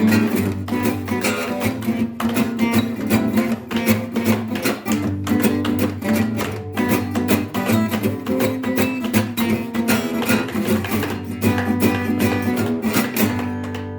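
Acoustic guitar music with fast, rhythmic strumming over steady low bass notes.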